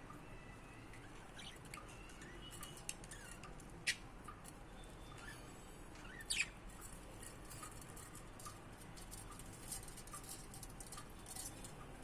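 Budgerigar giving a few short, sharp chirps, the loudest about four and six seconds in, with faint scattered ticks and soft small calls in between.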